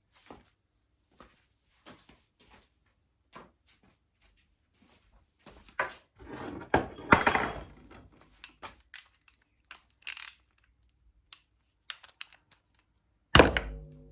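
Hand tools and small metal parts being handled on a workbench while a carburetor is taken apart: scattered clicks and light rattles, a longer scraping clatter midway, and a sharp metal clank near the end that rings briefly.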